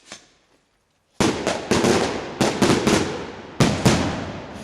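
A quick string of about ten sharp firework bangs in three tight clusters, starting about a second in, each trailing off in a reverberant rumble: the multi-salute break of a homemade aerial rocket.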